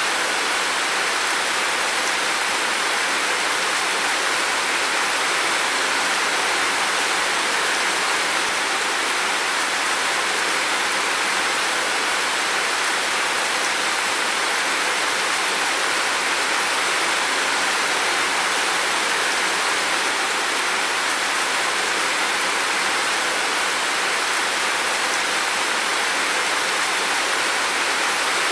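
Heavy rain falling steadily, an even hiss of water noise with no let-up or change.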